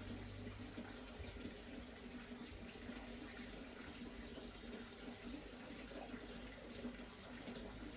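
Faint, steady running water.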